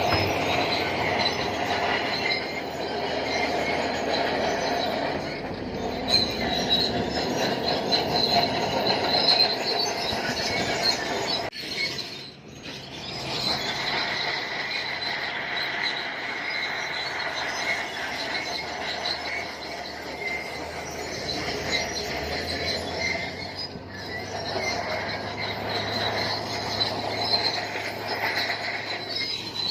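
Crawler bulldozer working, with the steady high-pitched squeal and clatter of its steel tracks over the engine. The sound dips briefly partway through, then picks up again.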